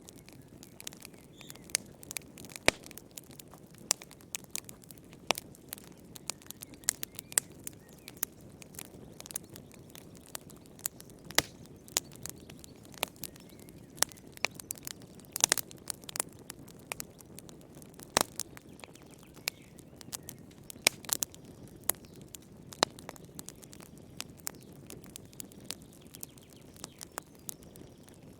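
Wood fire crackling: irregular sharp pops and snaps, several a second and a few louder than the rest, over a low steady hiss of burning.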